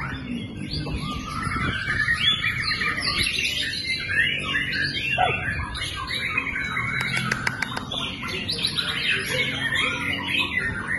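White-rumped shama (murai batu) song: a dense, continuous run of fast, varied chirps, whistles and warbles.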